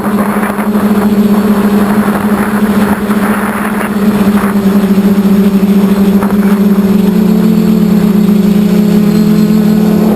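QAV540G quadcopter's motors and propellers droning steadily at one pitch, over a rushing noise.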